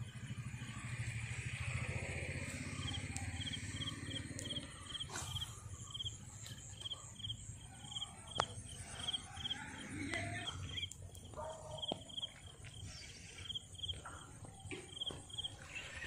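Outdoor ambience: a short high chirp repeating about twice a second over a steady low rumble, with a few faint clicks.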